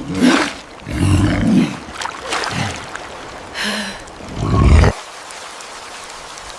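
Animal roars in about five loud bursts, cutting off suddenly about five seconds in.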